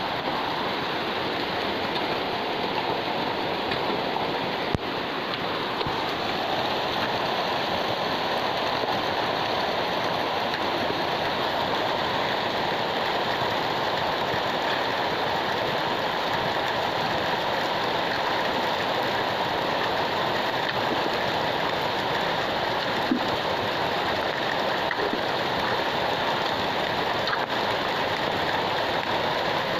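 Heavy rain falling steadily, a continuous even hiss, with a faint sharp tap about five seconds in and another near the 23-second mark.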